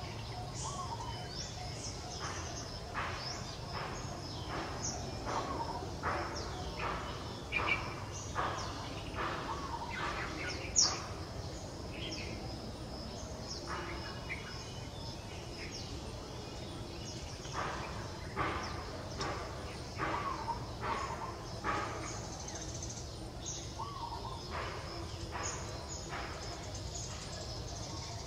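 Birds chirping in short repeated calls over steady low outdoor background noise.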